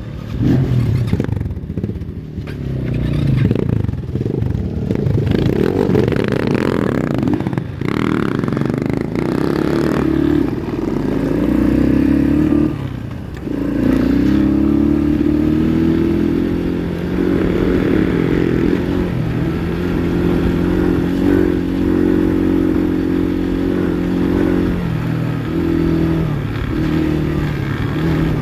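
Kayo Evolution pit bike engine running under way, its note rising and falling as the rider works the throttle. Rattling and scraping of the bike over rough ground can be heard with it.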